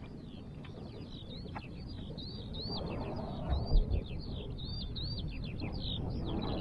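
Continuous high-pitched birdsong, a rapid unbroken run of chirps and warbled notes, over the low rumble of wind on the microphone, which grows louder and gusts about three and a half seconds in.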